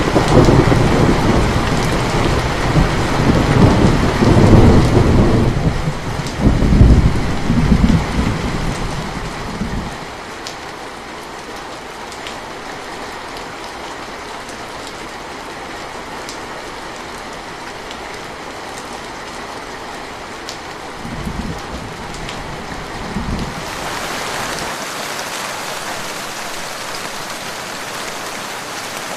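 Steady rain with a long roll of thunder over the first ten seconds, loudest about four and seven seconds in, then two short low rumbles later. Near the end the rain hiss grows brighter and heavier.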